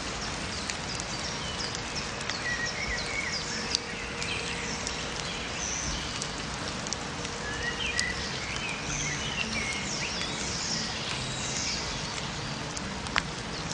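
Forest ambience: many birds chirping and calling in short, quick notes over a steady background hiss, with a sharp click about four seconds in and another near the end.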